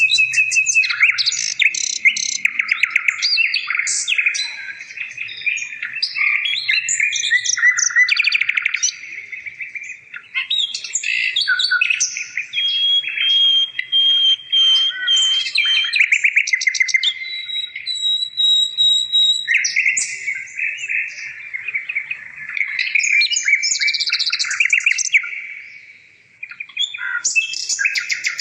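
A songbird singing almost without a break: fast trills and chattering runs of notes mixed with a few held whistles, dropping away briefly twice.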